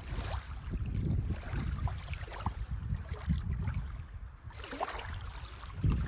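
Sea waves washing on a sandy beach, mixed with wind buffeting the microphone in uneven low rumbles.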